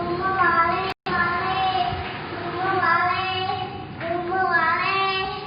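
A young child singing wordlessly in long, drawn-out notes that slide up and down in pitch, with the sound cutting out completely for a moment about a second in.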